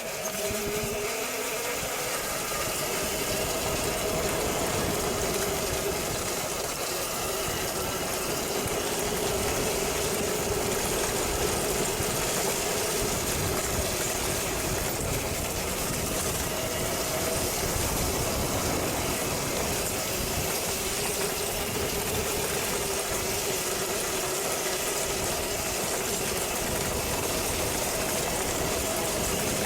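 Electric dirt bike's motor whining as it pulls away, its pitch rising over the first couple of seconds and then holding fairly steady, over a constant rushing noise of wind on a helmet-mounted microphone.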